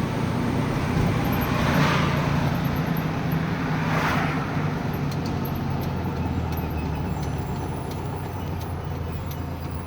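1970 VW Beetle's air-cooled flat-four engine running as the car drives along in Autostick range 1, a steady low hum. Two short swells of rushing noise come about two and four seconds in, and the sound eases off slightly near the end.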